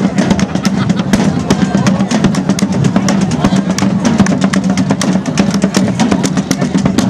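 Marching drum band playing: rapid, continuous snare and bass drum beats with rolls.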